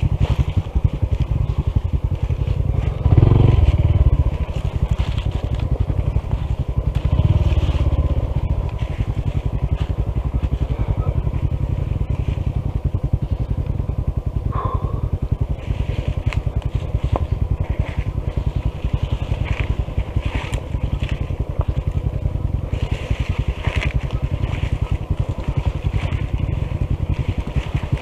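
Honda CT125 motorcycle's single-cylinder engine running at low speed on a rough downhill trail, with two louder swells about three and seven seconds in.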